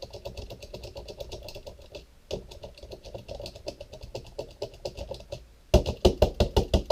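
Rapid light clicking and tapping on a plastic toy 4x4 as it is tapped and rocked back and forth to try to free its stalled electric motor, which won't turn after long disuse. The taps turn louder and slower near the end.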